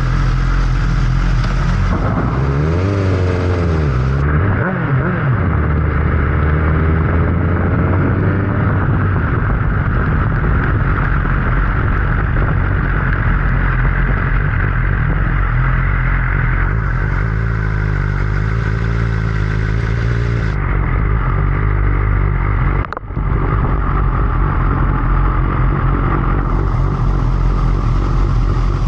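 Motorcycle engine running under way, its pitch rising and falling for a few seconds early on as the revs change, then holding steady. There is a brief break about 23 seconds in.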